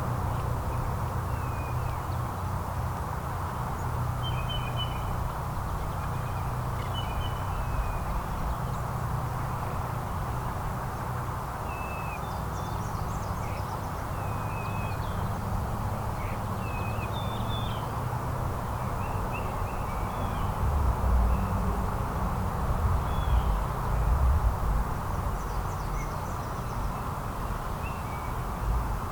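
Small birds chirping in short, scattered calls over a steady low background rumble, with a few louder low thumps past the middle.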